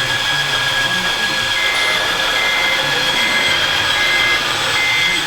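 Steady electric whine from radio-controlled model construction machines at work, with a reversing beeper starting about a second and a half in and sounding about once every 0.8 seconds.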